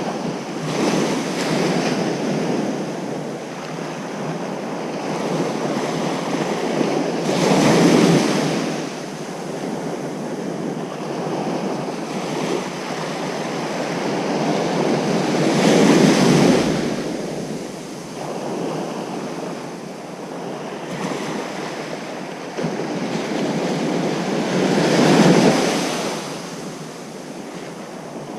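Ocean surf on a beach: a continuous wash of water with three waves breaking, one about every eight or nine seconds.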